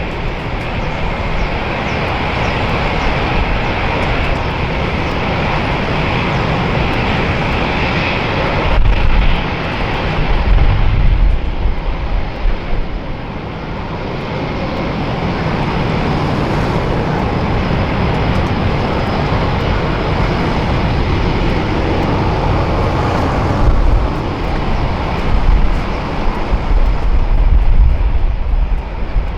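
Jet airliner engines running loud and steady at close range, with deep rumbling swells about ten seconds in and again near the end.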